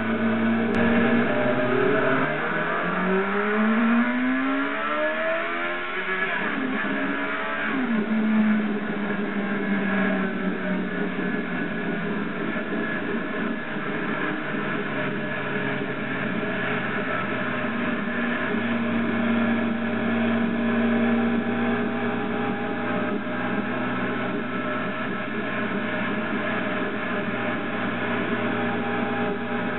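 Motorcycle engine accelerating, its pitch rising a few seconds in and again around the eighth second, then running at a steady pitch over a constant rushing noise.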